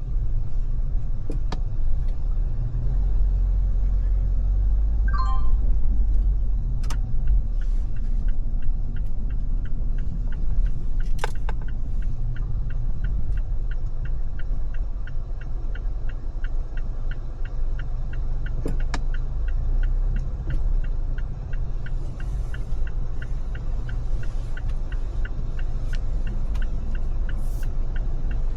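Car driving along a road: a steady, loud low rumble of engine and tyre noise. From about ten seconds in there is a regular light ticking, and a few sharp clicks and a brief chirp occur along the way.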